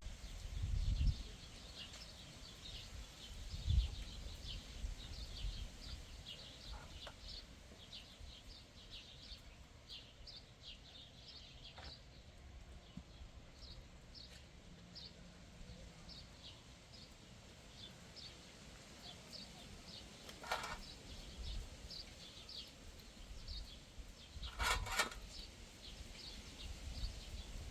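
Small birds chirping, many short high notes one after another, with two louder brief calls about twenty and twenty-five seconds in. A low rumble and a couple of dull thumps sit underneath near the start.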